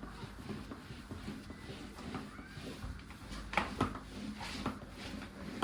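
Soft scattered clicks and knocks of things being handled, with a few sharper clicks about three and a half seconds in.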